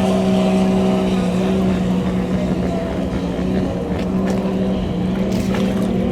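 Racing boat engine running loud at a steady pitch, with a few short sharp clicks in the second half.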